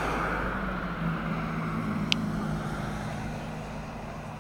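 A Honda H22-powered coupe and a Ford F-350 turbo diesel accelerating hard in a drag race, their engine and road noise slowly fading as they pull away. A single sharp click about two seconds in.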